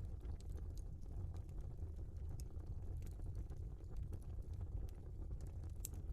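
Wood fire in a fireplace, burning logs crackling with scattered sharp pops over a steady low rumble of the flames.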